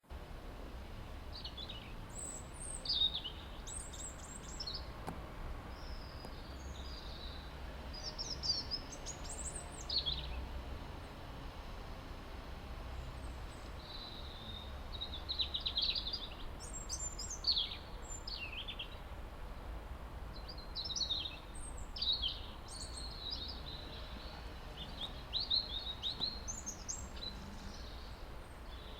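Small songbirds singing, short high chirping phrases every few seconds, over a low steady background rumble.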